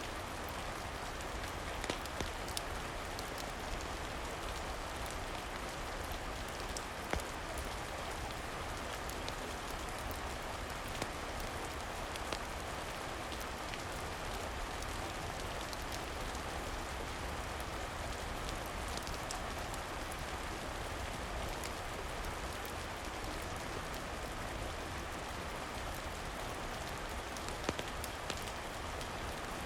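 Steady rain, with a few brief sharp pops scattered through.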